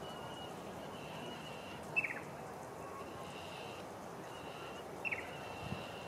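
Two short bird chirps, each a quick downward glide, about three seconds apart, over steady background noise. A faint high note comes and goes behind them.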